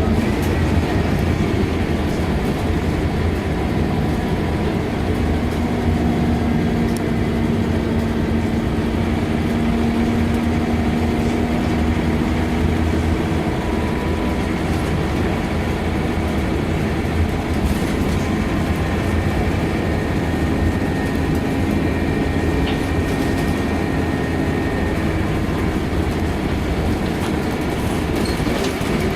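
Scania K230UB single-decker bus on the move: its diesel engine runs steadily under constant road noise. The engine note rises and falls a few times as the bus pulls away and changes speed.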